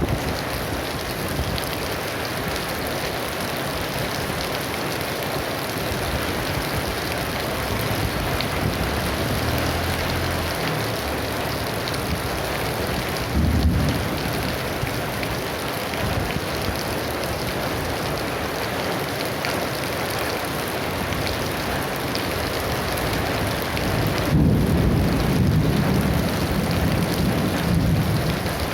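Heavy rain pouring steadily, with thunder rumbling through it: a low roll about nine seconds in, a louder one about halfway, and a long rumble over the last few seconds.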